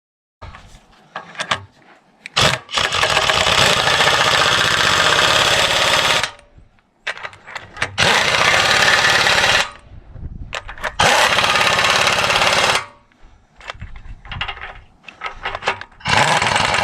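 Impact wrench running in four bursts of a few seconds each, with short clanks in between, driving home the bolts that hold a flipped excavator blade cutting edge.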